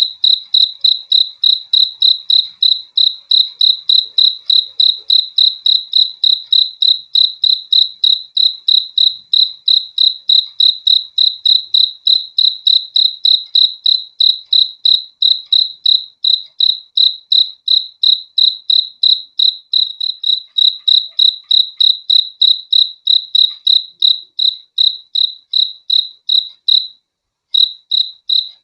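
A cricket chirping in a steady, even rhythm of about three to four high-pitched chirps a second, with one short break near the end.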